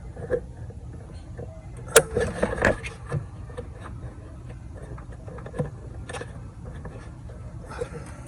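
Hand work on engine parts: a sharp click about two seconds in, a short clatter of small metal parts right after it, and a couple of lighter knocks later, over a steady low hum.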